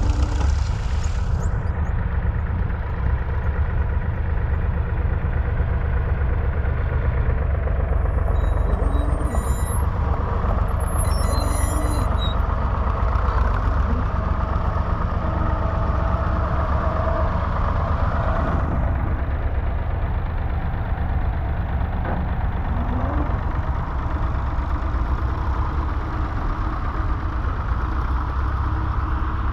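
David Brown 780's 2.7-litre three-cylinder diesel tractor engine running steadily, with brief high-pitched chirps a third of the way in.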